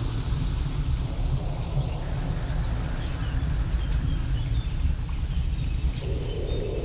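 Deep, steady rumble of a thunderstorm with a soft hiss of rain, and faint, high bird chirps from about halfway through.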